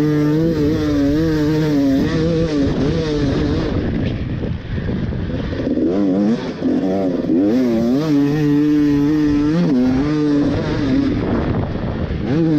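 Husqvarna TE250i two-stroke motocross bike ridden on track, its engine revving up and down with throttle and gear changes. There are brief drops in revs about four and six seconds in.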